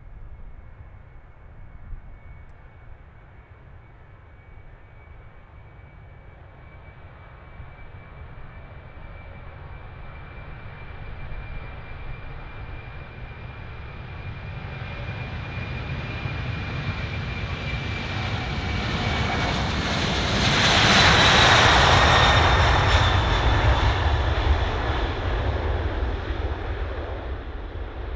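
Boeing 747's four jet engines passing by: a rumble and high whine that grow steadily louder, peak about three quarters of the way through as the whine drops in pitch, then begin to fade.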